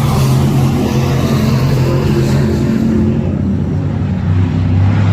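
Race car engines running loud and steady at a speedway, with the engine note dropping lower about four seconds in.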